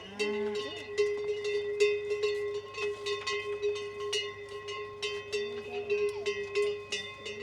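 Many cowbells clanking and ringing continuously on grazing livestock, with a few brief animal calls.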